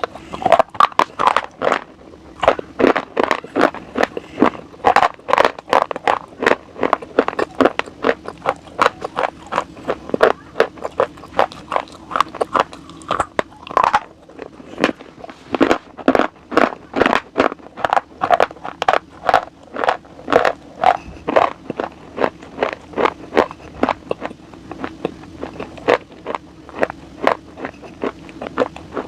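Close-miked ASMR chewing of something hard and crunchy: rapid, uneven crunches and bites, a few a second, over a faint steady hum.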